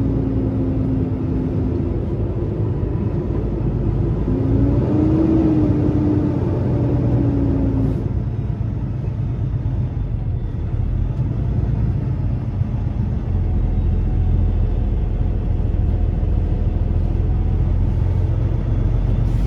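Semi truck's diesel engine running, heard from the cab as a steady low rumble, with a drone that rises then falls in pitch for a few seconds starting about four seconds in.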